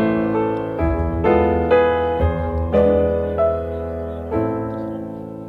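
Background piano music: a slow melody of sustained notes and chords, ending on a chord that fades away.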